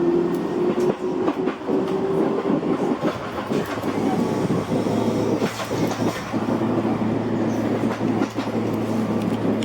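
Running noise heard inside a Tobu Tojo Line commuter train carriage under way: steady rumble and hum with irregular clacks of the wheels over rail joints. A steady low hum sets in about four seconds in.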